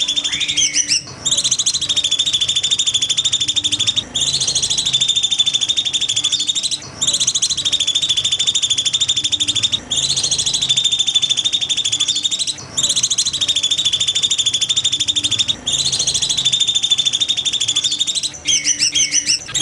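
A songbird's very fast, high trill, the kind of rapid-fire 'tembakan' phrase used as masteran song, repeated about seven times in phrases of roughly three seconds with short breaks between them.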